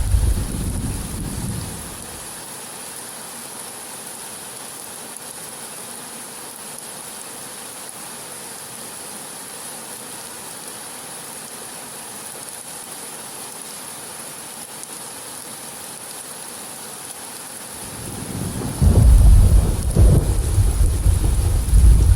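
Heavy, steady rain with rolling thunder. A deep thunder rumble dies away over the first couple of seconds, leaving only the rain, and then a new, louder rumble builds about eighteen seconds in and keeps rolling.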